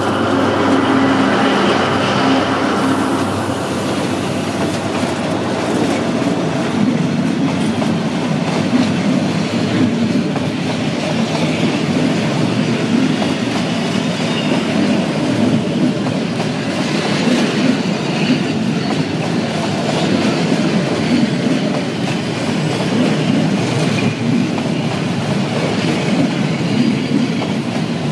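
Train running past close by: a loud, steady rumble with the clatter of wheels over the rails. A humming tone at the start fades out within about two seconds.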